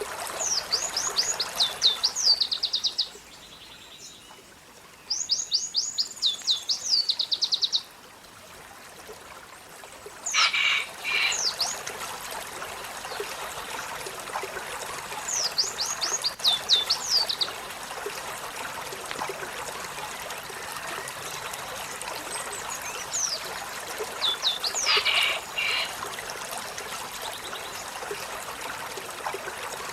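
Olive-backed sunbird singing: bursts of rapid, high, downward-sweeping notes, each lasting two to three seconds, four times over, with a few sharper calls between them. A steady trickle of water runs underneath.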